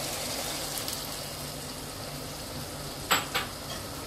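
Meat and onions sizzling steadily as they fry on high flame in an aluminium pressure cooker pot. A steel spoon scrapes against the pot twice about three seconds in.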